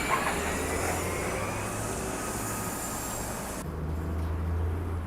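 City transit bus running at the curb amid street traffic noise, with a faint rising whine. About three and a half seconds in the sound changes abruptly: the high hiss drops away, leaving a low steady engine hum.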